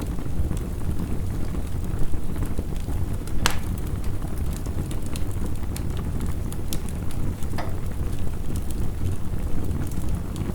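Wood fire crackling, with sharp pops scattered through it and a louder pop about three and a half seconds in, over a steady low rumble of heavy rain.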